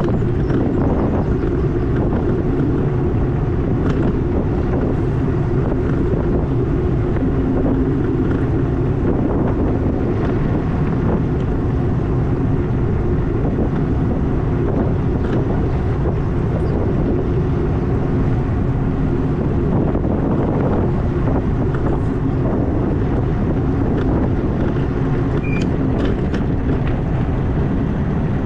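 Wind buffeting the microphone while riding an e-bike, a steady low rumble with the bike's running noise beneath it.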